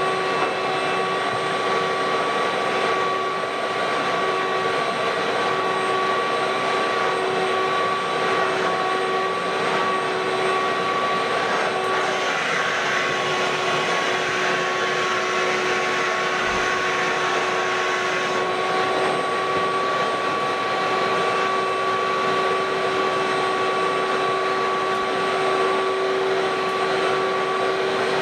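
Ridgid WD1450 wet/dry shop vacuum running steadily, a constant motor whine over airflow hiss, as it vacuums carpet.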